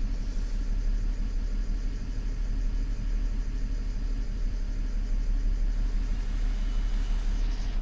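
BMW N53B30 inline-six petrol engine idling steadily shortly after a cold start.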